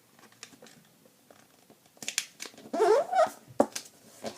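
A sheet of origami paper being handled, folded and creased by hand: scattered soft crackles and rustles that get louder about two seconds in. A brief wavering pitched sound comes with the loudest rustles about three seconds in.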